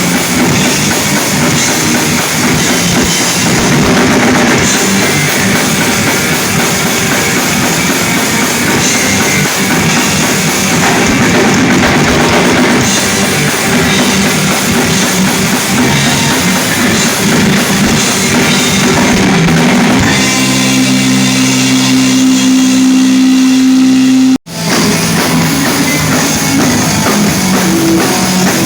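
Rock band playing live, drums and guitar at full volume. About twenty seconds in the band holds one chord for about four seconds, then the sound cuts out for an instant before the music comes back in.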